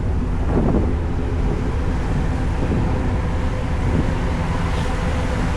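Ferry's engines running with a steady low rumble and a faint hum, with wind on the microphone.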